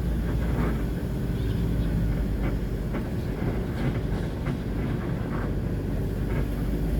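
A heavy engine running with a steady low rumble, with a few faint knocks over it.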